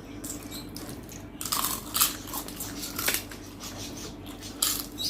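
Eating noises at a meal: a few short bursts of chewing and mouth sounds over a steady low hum.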